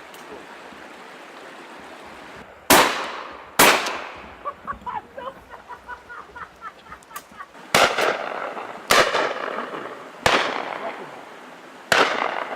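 Six shotgun shots at driven game birds, each sharp crack trailing off in an echo, the first two close together about three seconds in and the rest spread over the following nine seconds. Between the early shots runs a string of short chirping calls.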